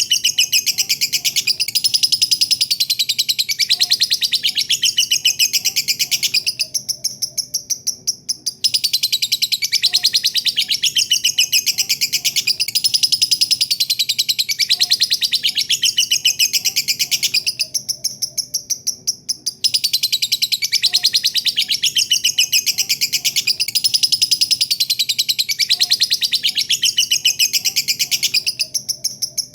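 Lovebird's long 'ngekek' chatter: a rapid, high-pitched rattling trill of many quick notes, running in long phrases broken by pauses of about two seconds, three times.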